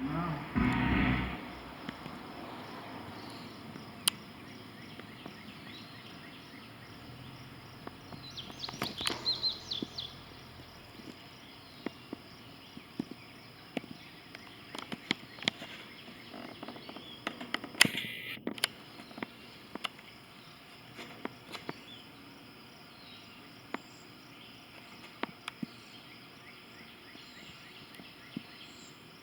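Outdoor ambience of insects buzzing steadily at a high pitch. A short run of bird chirps comes about nine seconds in, with scattered sharp clicks throughout, a noisy thump at the very start and another brief burst about eighteen seconds in.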